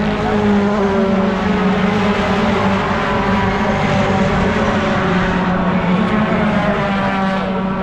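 Racing pickup truck engine running at high, steady revs: a continuous loud drone that holds nearly one pitch, shifting only slightly about two-thirds of the way through.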